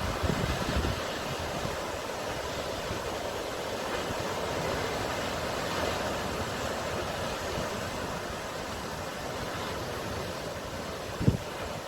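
Sea waves and surf washing in a steady, even hiss. Low gusts of wind hit the microphone in the first second, and a short thump comes near the end.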